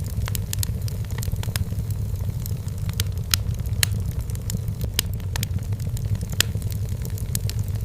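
Wood fire burning in a fireplace: a steady low roar of the flames under irregular sharp crackles and pops from the burning logs.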